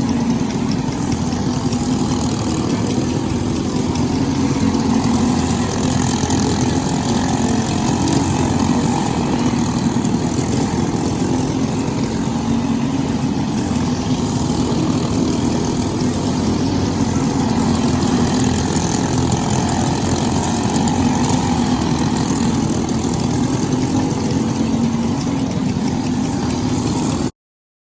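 Kart engine, a Briggs & Stratton LO206 single-cylinder four-stroke, running with a fairly steady drone. It cuts off abruptly near the end.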